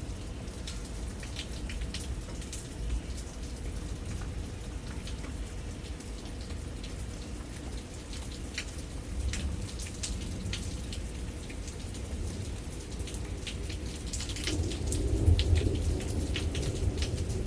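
Rain falling, with many separate drops ticking on a hard surface over a steady wash. A low rumble of thunder swells about fourteen seconds in and fades near the end.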